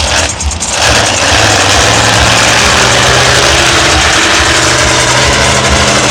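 Monster truck engine running loud, rising about a second in and then held at a steady speed.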